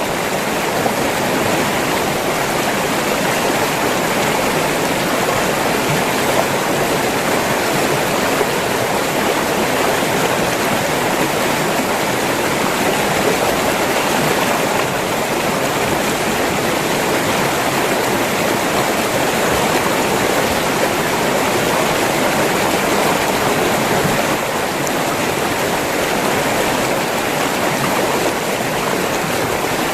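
River water flowing and rushing over rocks, a steady dense splashing with no change in level.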